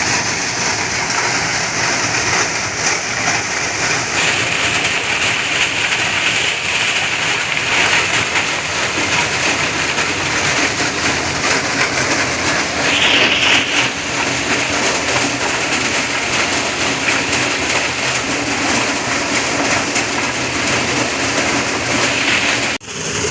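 Motorised corn thresher running steadily: a loud, dense hiss-like clatter like heavy rain over a low engine hum, with a brief break near the end.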